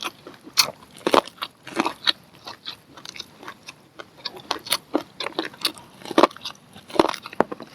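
Close-up biting and chewing of grilled corn on the cob, with irregular crunchy clicks as kernels are bitten off and chewed.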